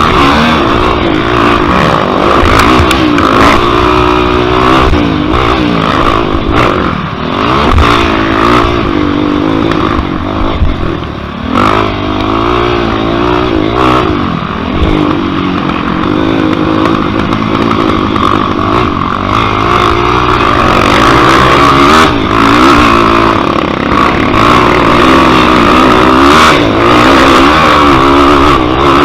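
Yamaha YFZ quad's single-cylinder four-stroke engine at race pace, revving up and falling back again and again as it is driven hard through the gears, with scattered knocks and clatter.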